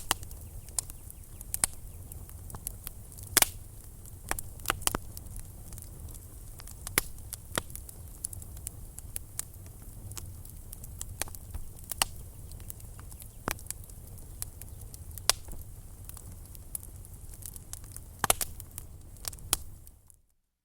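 Wood fire burning in a fireplace, crackling with sharp, irregular pops over a low, steady rumble. The sound cuts off suddenly near the end.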